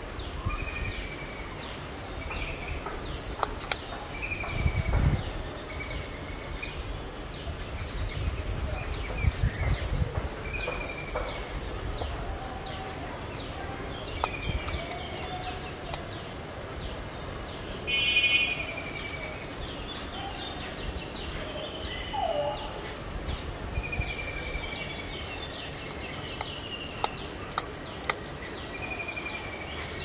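Wild birds calling: a short falling whistle repeated every second or two, clusters of very high ticks, and a brief rapid trill about eighteen seconds in, over a low rumble.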